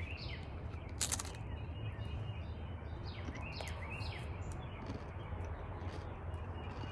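Birds chirping in short, downward-sweeping calls over a steady outdoor background noise, with one sharp crunch about a second in.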